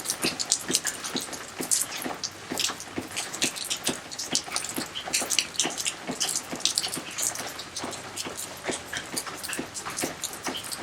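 Rain falling, a dense, irregular patter of drops hitting and splashing, steady throughout.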